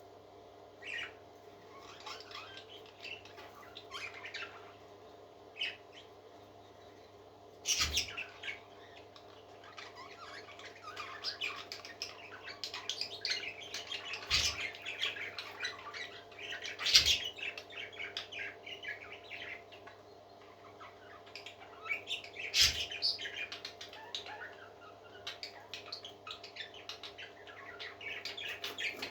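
Baby parrots chirping and squawking in quick, short, high calls, sparse at first and then almost continuous, with four sharp knocks along the way and a steady low hum underneath.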